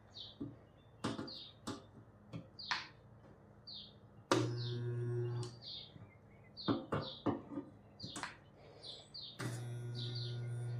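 A steady electric machine hum starts suddenly twice, briefly about four seconds in and again near the end, amid scattered sharp metal clicks and taps. Birds chirp repeatedly in the background.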